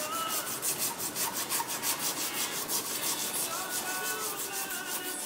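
Wooden knife handle scales being shaped by hand with an abrasive, rubbed in quick, even back-and-forth strokes, about four a second.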